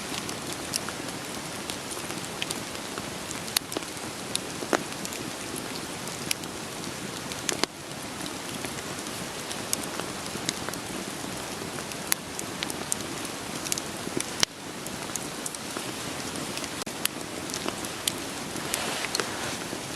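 Steady rain hiss, with scattered sharp pops and crackles of a wood fire burning over it.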